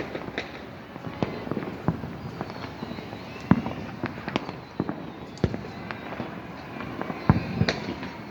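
Many fireworks and firecrackers going off at once: a continuous background of pops and crackle with frequent sharp bangs, the loudest about three and a half and seven seconds in.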